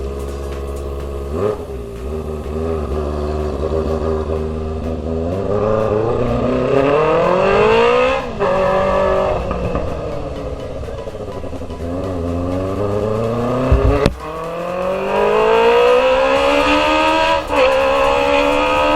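Kawasaki ZX-25R's 250 cc inline-four through an Akrapovic GP Evolution exhaust, accelerating through the gears: the revs climb and drop back sharply at three upshifts, easing off once in between. A sharp crack comes just before the second upshift.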